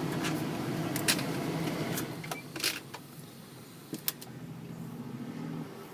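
Chevrolet Express motorhome engine idling, heard from inside the cab, with a few sharp clicks of the dashboard climate controls being worked. The steady noise drops a little just before the middle.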